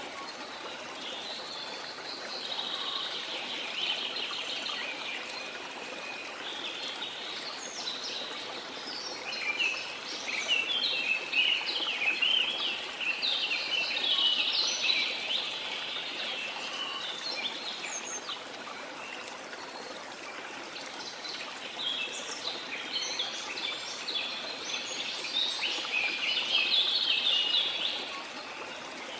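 Many birds chirping and singing in quick overlapping phrases over the steady rush of a waterfall. The birdsong comes in busier spells, about a third of the way in and again near the end.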